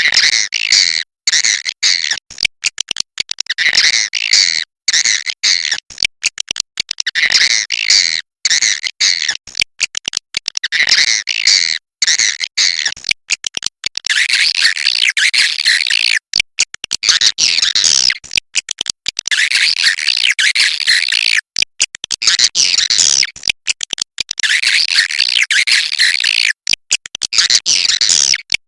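Swiftlets calling: a dense, rapid, twittering chatter, in short groups with brief gaps at first and in longer unbroken runs from about halfway through.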